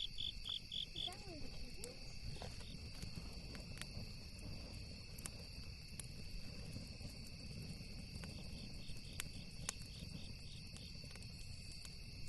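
Crickets chirping in quick, evenly spaced runs near the start and again later, over a steady high insect drone. There are scattered sharp crackles from a campfire and a low rumble underneath.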